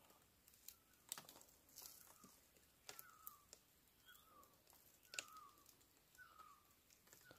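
A faint bird call, a short falling note repeated about once a second, over a quiet forest, with scattered faint clicks.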